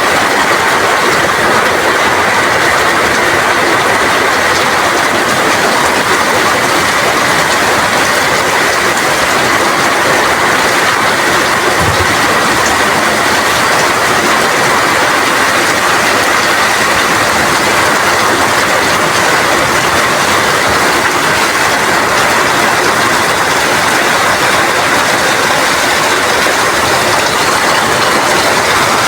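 Rain falling steadily, a dense, loud, even hiss with no breaks or swells.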